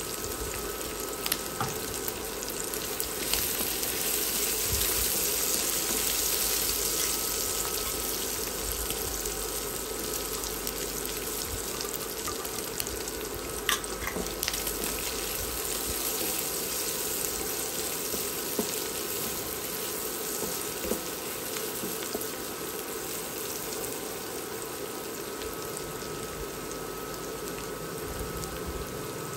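Chicken and sliced onion sizzling in oil in a black steel wok, a steady frying hiss that swells a few seconds in, with a few sharp clicks against the pan.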